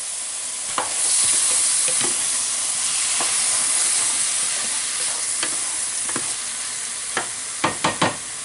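Mushrooms, onion and garlic sizzling in butter and oil in a frying pan, with a utensil knocking against the pan as they are stirred. The sizzle grows louder about a second in, and a quick run of knocks comes near the end.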